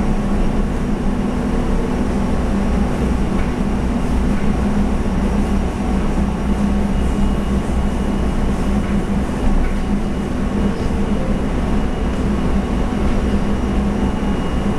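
Steady running noise inside a Taiwan Railway EMU700 electric multiple unit at speed: wheels on the rails with a constant low hum. A faint high whine joins about halfway through.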